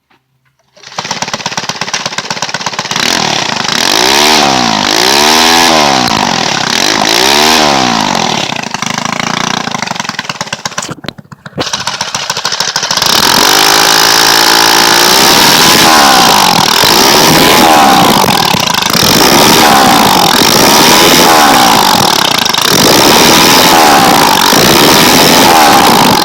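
Honda GX31 four-stroke mini-bike engine, fitted with a homemade exhaust that has a copper pipe run halfway into the exhaust pipe, starting up and being revved up and down repeatedly. Near the middle it nearly dies and drops out for a moment, then picks back up and keeps revving.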